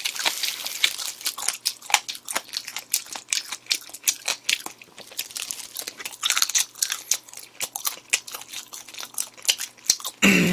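A person chewing and crunching spicy chicken close to the microphone: a dense, irregular run of crunches and clicks, with plastic food gloves crinkling.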